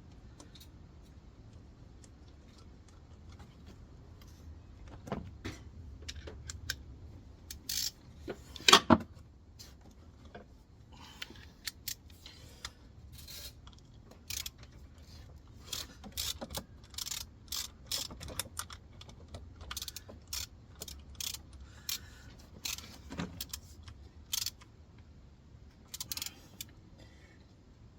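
Metal hand tools and parts clicking and clanking irregularly as a new belt-drive part is fitted to the engine, with one loud metallic clank about nine seconds in.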